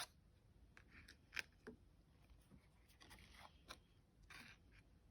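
Faint, scattered clicks and light scrapes of oracle cards being handled and laid down one at a time.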